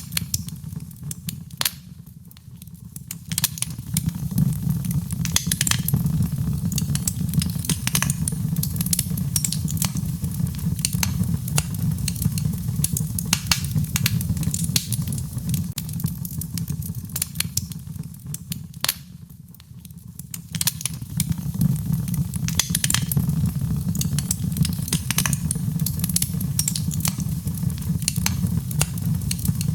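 Wood fire in a fireplace crackling and popping over a low, steady rumble of flames. The sound dips briefly twice, about two seconds in and again a little past the middle.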